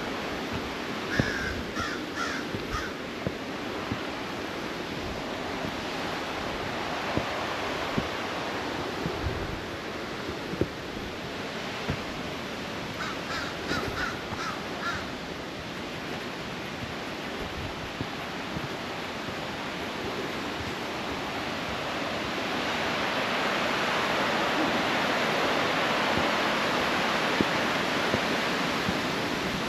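Creek water rushing steadily over rocks, growing louder about two-thirds of the way in. A bird calls twice in quick series of four or five harsh calls, once near the start and again about halfway through.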